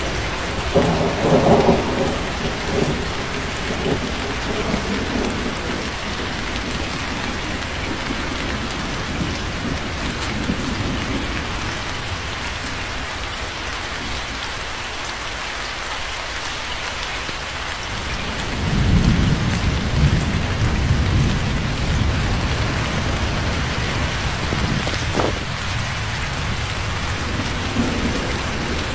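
Steady rain falling, with two rolls of low rumbling thunder: one near the start and another about two-thirds of the way through.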